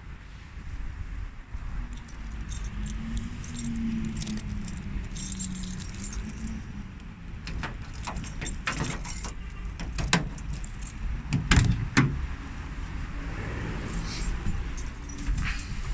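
Jeepster Commando's Barreiros engine running with a low rumble and a dense, irregular metallic clatter and ticking. Two louder knocks come just before the twelfth second.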